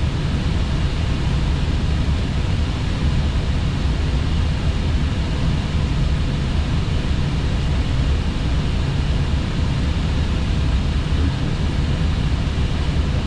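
Airbus A320 flight-deck noise in descent: a steady low rumble with an even rush of airflow.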